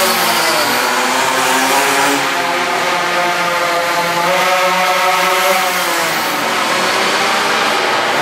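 Minibike engine running hard, its pitch rising and then falling again as it revs up and eases off.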